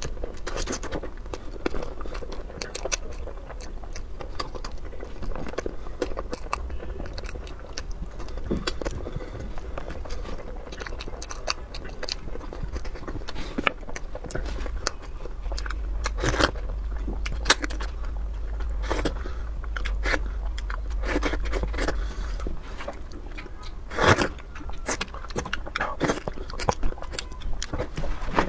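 Close-miked chewing and biting of food, a steady run of wet mouth sounds and short sharp crackles and clicks, with one louder snap about three-quarters of the way through.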